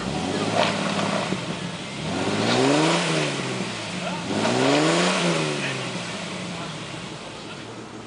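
An off-road 4x4's engine revving hard in two surges, each rising in pitch and then falling away, about three and five seconds in, as the vehicle works on a muddy slope.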